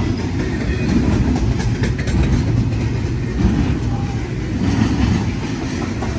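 Double-stack intermodal container well cars rolling past close by: a steady heavy rumble of steel wheels on the rails that swells and eases a little as the cars go by.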